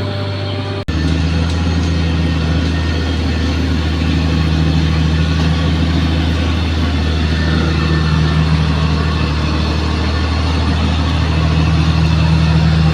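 Heavy earthmoving machine's diesel engine running steadily with a deep, even hum, broken by a brief dropout about a second in.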